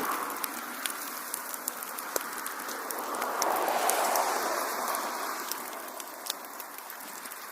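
Wood fire crackling with frequent sharp pops over a soft rushing of flames that swells about halfway through.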